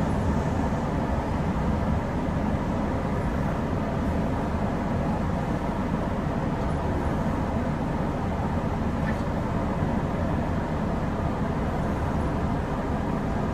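Kintetsu 8000 series electric train running along the line, a steady low rumble of wheels and running gear heard from inside the leading car.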